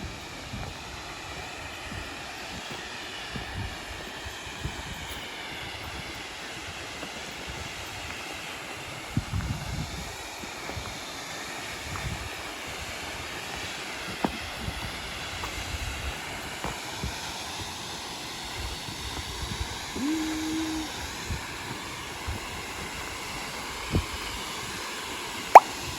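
Steady rush of falling water from a waterfall, with irregular low rumbles of wind on the microphone and a few sharp clicks, the loudest just before the end.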